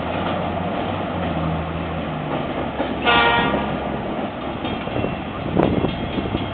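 Diesel train pulling out, its engine running low and steady, with one short horn blast about three seconds in and a sharp clank near the end.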